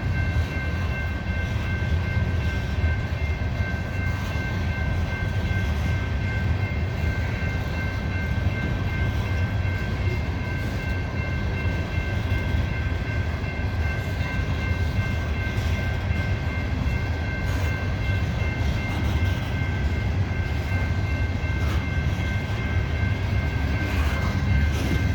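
Loaded coal hopper cars of a freight train rolling slowly past: a steady heavy low rumble with a thin, steady high-pitched ringing squeal over it.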